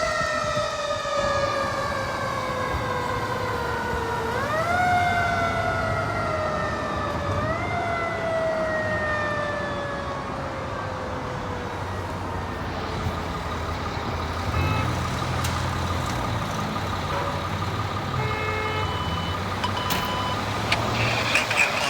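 Fire truck's mechanical siren winding down in a long falling wail, pushed back up twice in quick rises about four and seven seconds in, then coasting down and fading out around halfway, over the truck's engine rumble.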